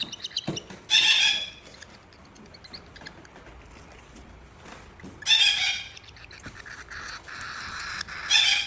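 A bird calling: three short, harsh calls a few seconds apart.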